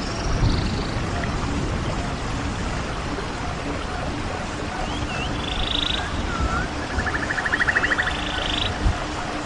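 Small birds calling: short up-and-down whistles, each followed by a fast rattling trill, several times over. Underneath, a steady rush of wind with low gusts on the microphone.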